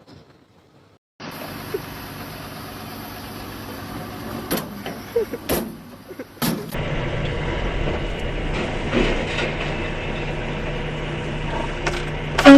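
Road vehicle noise: a steady engine and traffic sound with a few sharp knocks in the first half, then a steadier low engine hum after an abrupt change.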